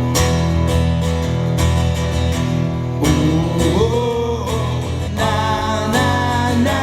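Live band playing an instrumental break led by guitar, with a steady beat. A held melody line slides up in pitch about three seconds in, and another wavering line enters about five seconds in.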